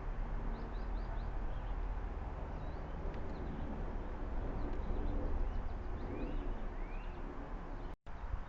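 Birds chirping faintly, with short high chirps throughout and a couple of rising whistled notes near the end, over a steady low outdoor rumble. The sound cuts out briefly just before the end.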